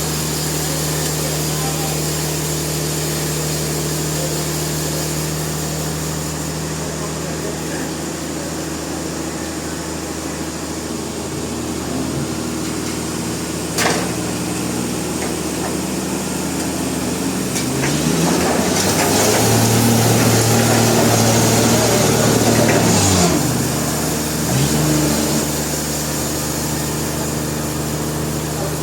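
Sawmill machinery running with a steady hum. A single sharp click comes about halfway through, and past the middle a louder, harsher stretch of machine noise lasts about five seconds before it drops back to the steady hum.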